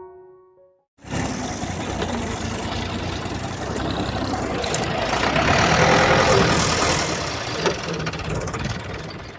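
A motor running with a dense, noisy sound that swells toward the middle. It cuts in abruptly about a second in and stops sharply near the end.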